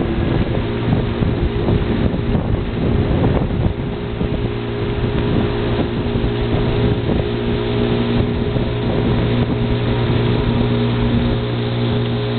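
Motorboat engine running steadily at an even pitch, with wind buffeting the microphone during the first few seconds.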